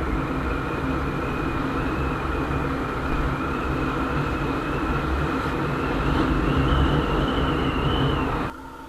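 Honda CBR150R's single-cylinder engine running at riding speed, heavily masked by wind noise rushing over the helmet-mounted action camera's microphone, with a steady high whine that edges up in pitch late on. The sound drops off abruptly shortly before the end.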